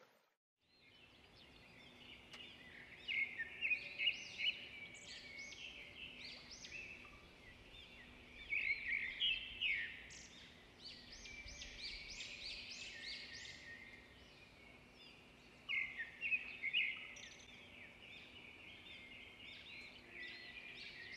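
Birds chirping in quick runs of high calls, faint overall, loudest in three bursts a few seconds apart. A faint steady low hum sits underneath.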